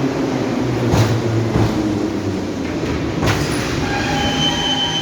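EMA-502/EM-501 metro train running: steady rumble with occasional knocks from the running gear. About four seconds in, a high-pitched steady squeal or whine sets in over the rumble.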